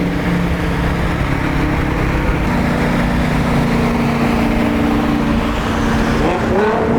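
BMW E92 driving, heard from inside the cabin: a steady engine drone with road noise, the engine note stepping to a new pitch about a third of the way in and rising near the end.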